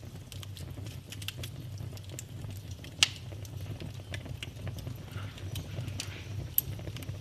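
Wood fire in a fireplace crackling, with scattered pops over a low steady rumble and one sharp, loud pop about three seconds in.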